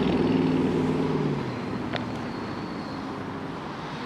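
Street traffic: a motor vehicle's engine hum that fades out about a second and a half in, over steady road noise, with a single sharp click about two seconds in.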